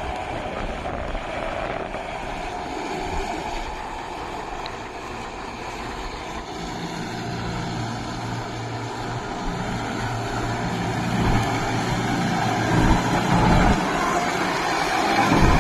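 Kubota MU5502 4WD tractor's four-cylinder diesel engine running under load in deep mud. A steady engine tone holds through the middle, and irregular low thumps get louder toward the end.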